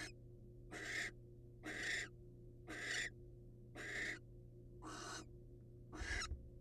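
Barn owl giving short, rasping hiss calls, about one every second, the snore-like hissing typical of a barn owl begging for food. A steady low electrical hum runs underneath.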